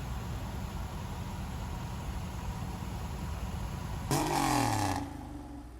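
2016 Range Rover Sport's supercharged V8 idling steadily, then a short rev about four seconds in whose pitch falls back over about a second.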